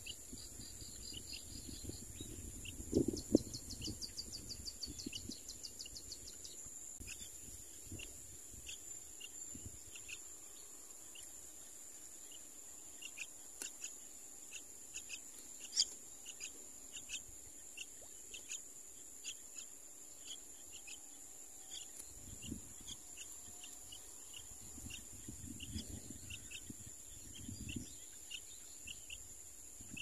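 Faint short bird chirps repeating about once or twice a second over a steady high insect drone. A rapid ticking trill sounds from about two to six seconds in, and a low bump about three seconds in is the loudest thing.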